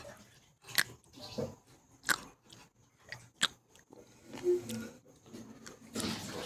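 Sea grapes (Caulerpa seaweed) popping while being chewed close to the microphone: a few short, sharp pops about a second apart.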